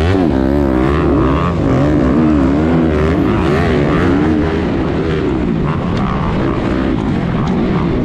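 Honda 250R motocross bike engine at race pace, its pitch rising and falling over and over as the throttle is worked.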